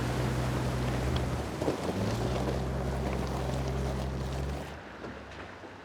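Off-road 4x4 SUV engine droning steadily under a rush of wind and rough-track noise. The drone breaks off briefly about one and a half seconds in, then drops away almost five seconds in, leaving quieter wind noise.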